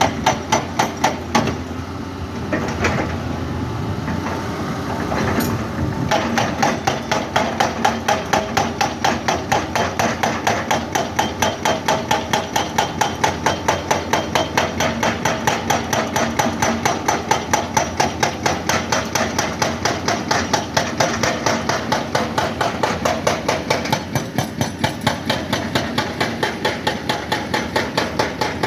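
Rapid, even hammering impacts, about four blows a second, over a steady machine sound. The blows let up from about two to six seconds in, then resume.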